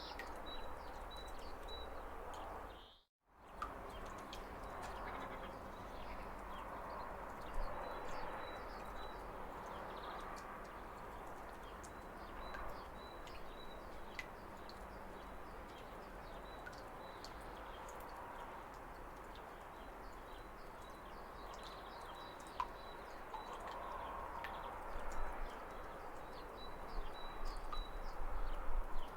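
Steady rush of a waterfall with birds chirping over it in runs of short, high repeated notes. The sound cuts out briefly about three seconds in.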